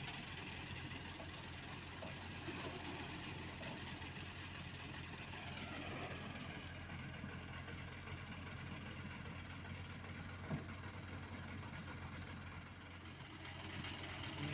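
Diesel engines of road-paving machinery running steadily at a low, even pitch, with a single sharp knock a little past the middle.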